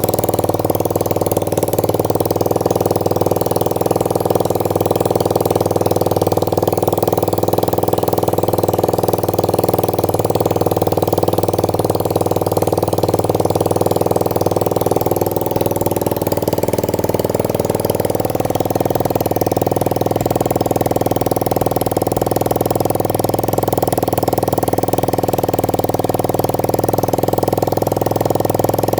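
Alpha 110 cc moped's single-cylinder engine idling steadily. It runs with no fuel tank, on the petrol left in the carburettor bowl. The tone shifts slightly about halfway through.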